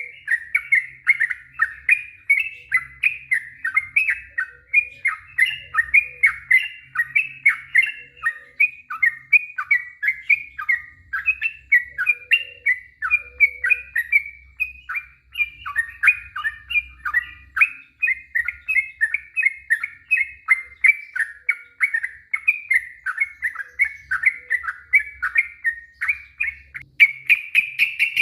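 Yellow-vented bulbul singing a long unbroken run of quick chattering notes, about three to four a second, that quickens and rises in pitch near the end.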